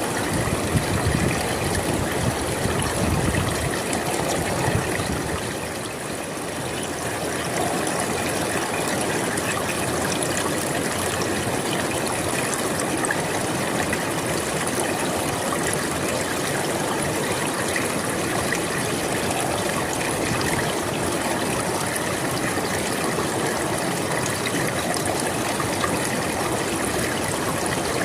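Flowing river, a steady rushing and trickling of water, with a deeper rumble in the first few seconds.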